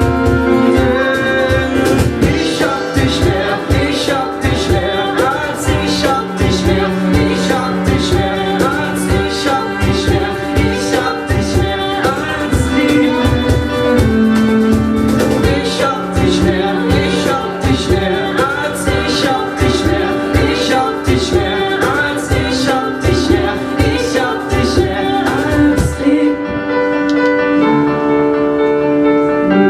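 A live band playing an instrumental passage of a German pop-rock song, with a steady beat under sustained chords; the beat drops out near the end, leaving only held chords.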